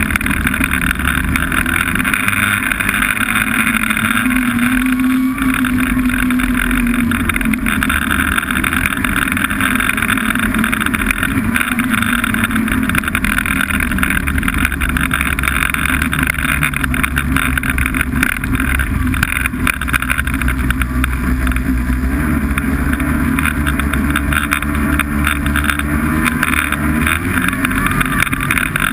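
Snowmobile engine running steadily at cruising speed, its pitch lifting slightly about five seconds in and again near the end.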